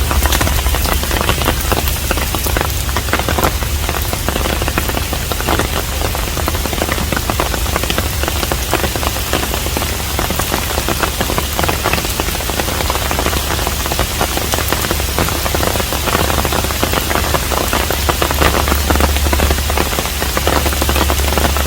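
Steady rain falling on a Korean hanok, with many fine drop ticks over an even hiss and a constant low hum underneath.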